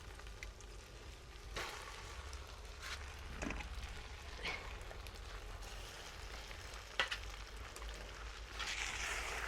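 Sizzling of food cooking in a pot, with scattered sharp clicks and one louder click about seven seconds in.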